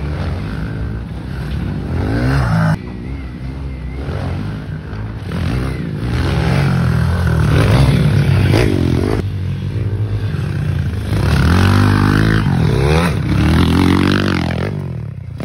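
Small pit bike engine revving up and down as it is ridden, the pitch rising and falling repeatedly, with a sudden break about three seconds in.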